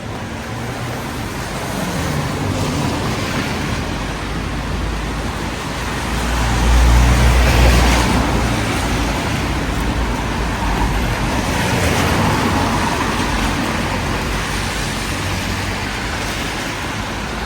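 Street traffic on a wet road: a steady hiss of tyres, with cars passing, the loudest pass coming about seven seconds in and another around twelve seconds.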